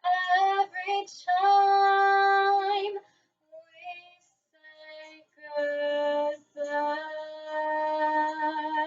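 A child singing solo, holding long, steady notes in short phrases with brief breaths between them.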